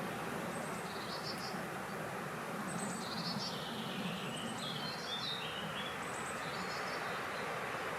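Small birds singing in short, repeated chirping phrases, several in a row, over a steady rushing hiss of wind.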